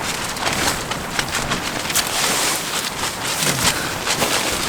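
Camping tarp flapping and crackling in strong gusting wind, a dense run of rapid snaps over a steady rush.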